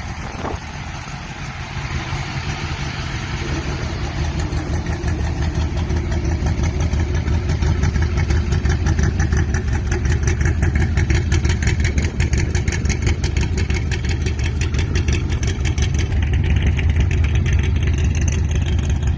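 Shelby Cobra 427's big-block V8 engine running with a rapid, even pulsing beat, growing louder over the first eight seconds or so and then holding steady.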